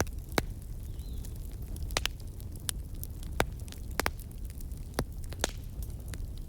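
Fire crackling: irregular sharp pops, a few of them louder, over a steady low rumble.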